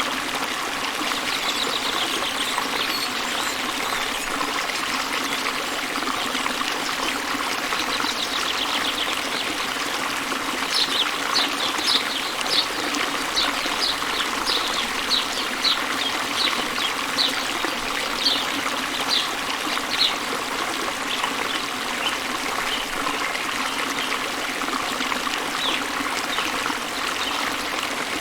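A small waterfall spilling into a river, with water rushing and trickling steadily. Over it a bird sings: brief trills, then a long run of short, high chirps about twice a second through the middle.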